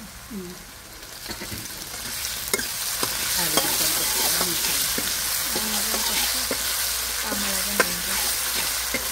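Salted potato wedges frying in hot oil in a metal karahi, sizzling while being stirred and scraped with a metal ladle. The sizzle grows louder about two seconds in, with a few sharp clinks of the ladle against the pan.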